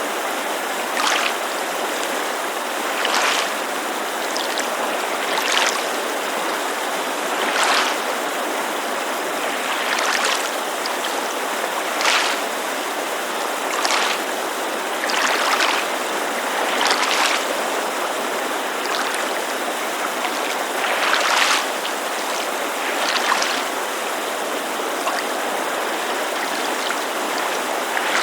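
Small waves lapping against a lake shore, a soft splash about every two seconds, over the steady rush of a mountain creek.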